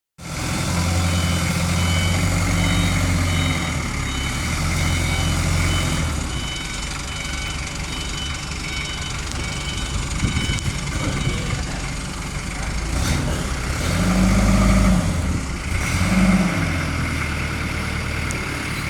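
Forklift's Isuzu C240 four-cylinder diesel engine running, with a reversing alarm beeping over it for the first several seconds. The engine revs up briefly twice near the end.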